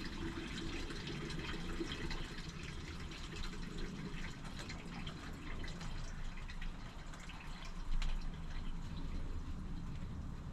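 Jerk chicken legs sizzling on a barbecue over the fire, with a dense, steady patter of small crackles from the fat.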